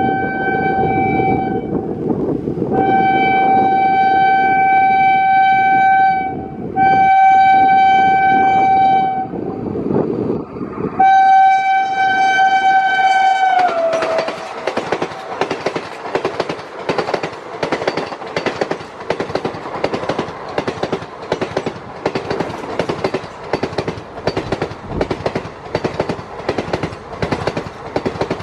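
An ABB WAP-5 electric locomotive sounds four long horn blasts as it approaches at speed, the horn's pitch dropping as it passes about 14 seconds in. Its train of ICF coaches then rushes past with a fast, steady clickety-clack of wheels over the rail joints.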